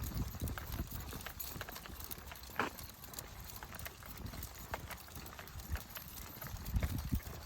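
Footsteps of a walker and a pack of dogs on a trail: irregular low thumps and scuffs with many small clicks. There is one brief higher sound about two and a half seconds in.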